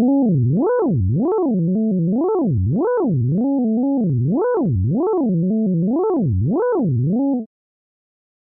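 Ring-modulated synthesizer tone, several pitches together, gliding up and down in a repeating zigzag about one and a half times a second, then cutting off suddenly near the end.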